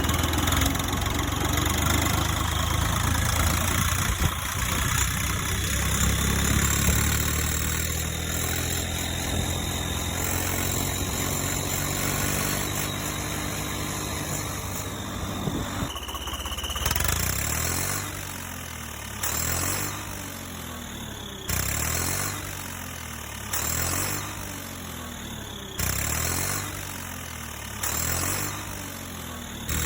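Tractor engine sound, running steadily at first. From about halfway through it surges in pitch and loudness about every two seconds, like repeated revving under load.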